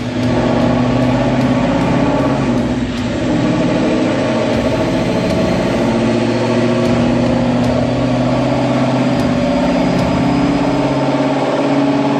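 Ford Mustang GT's 5.0 Coyote V8 running at a steady, low engine speed through a full aftermarket exhaust: Kooks longtube headers, an off-road X-pipe and Corsa Xtreme axlebacks. The exhaust note holds an even pitch.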